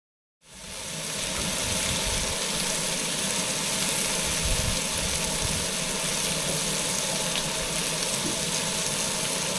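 Small boat's outboard motor running steadily under way, with a rush of wind and water over it; the sound fades in about half a second in.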